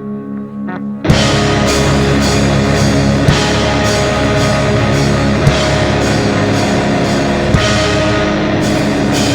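Live heavy rock band: a held chord, then drums and distorted electric guitar crash in loudly about a second in and play a driving, heavy passage before cutting off sharply near the end.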